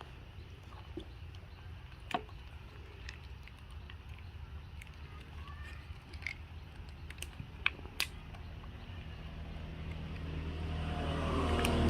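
A low steady engine hum, with scattered sharp clicks. Over the last few seconds a motor vehicle's engine grows steadily louder as it approaches.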